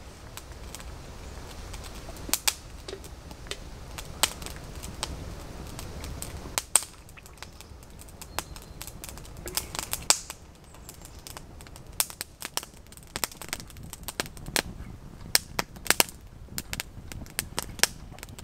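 Irregular sharp snaps and pops of dry wood, a few a second at the busiest, over a low rumble.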